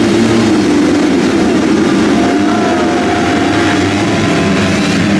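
Motocross bike engines running loud, a steady drone with some rise and fall in pitch as the revs change.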